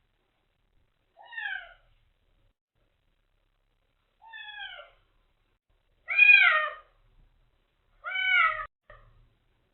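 Kitten meowing four times, a few seconds apart, each call falling in pitch, the last two louder, with a short extra note after the fourth. It is a motherless kitten crying, newly taken in.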